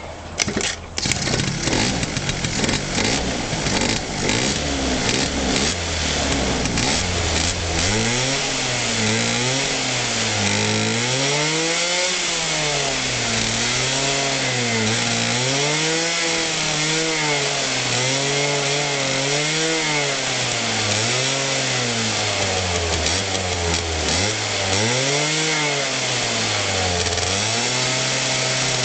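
Yamaha Mint moped's small two-stroke single-cylinder engine starting and running: it catches about half a second in and runs roughly at first, then the throttle is blipped again and again, the revs rising and falling about every two seconds.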